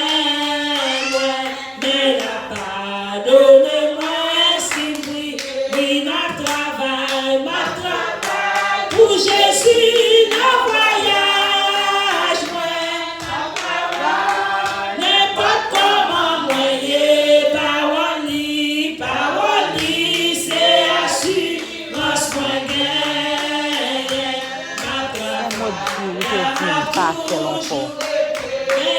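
A church congregation singing a hymn together, with hand clapping along to the song.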